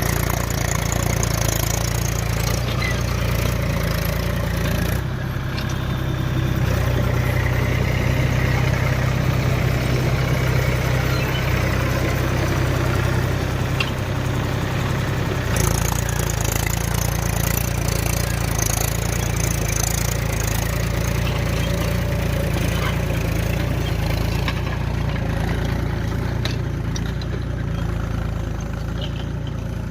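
Mahindra tractor's diesel engine running steadily. Its sound changes from about five seconds in until about fifteen seconds in, with less deep rumble and a stronger mid hum, then returns to the earlier sound.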